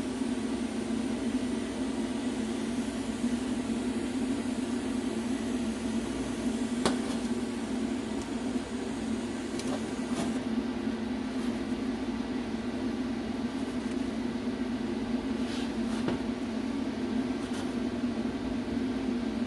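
A steady mechanical hum, with a few short light clicks and taps over it.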